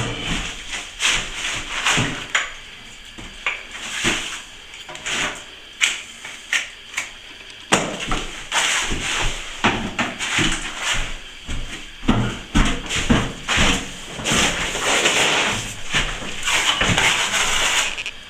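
Steel plastering trowel working wet plaster on a wall, with irregular scraping strokes and occasional sharp knocks.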